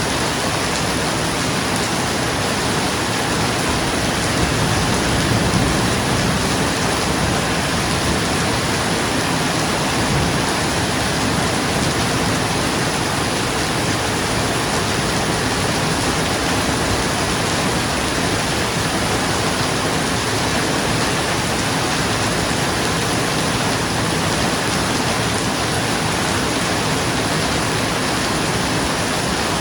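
Steady, dense rain on a roof, an even hiss with no pauses. A low rumble swells briefly about five seconds in.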